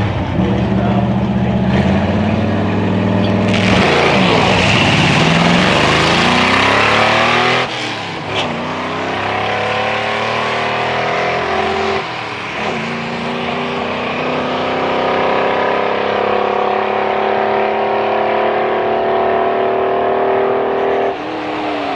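Car making a drag-strip pass at full throttle. It launches about three and a half seconds in and accelerates hard. The engine note climbs through gear shifts at about seven and a half and twelve seconds, then holds high until the throttle is lifted near the end.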